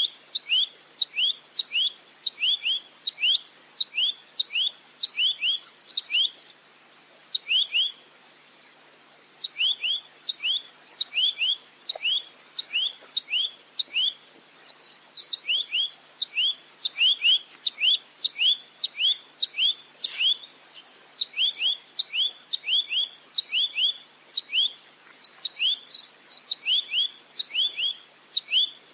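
Nuthatch (rambatan) calling: a fast, chattering run of sharp, downward-sliding high notes, about three a second, broken once by a short pause. A few thinner, higher notes are mixed in.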